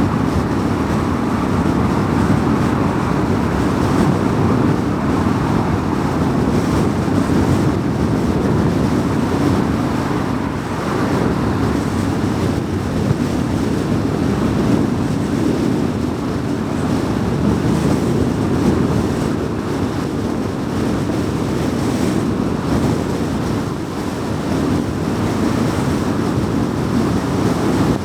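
Car driving at highway speed: a steady, even rush of tyre and road noise with wind, with no sudden events.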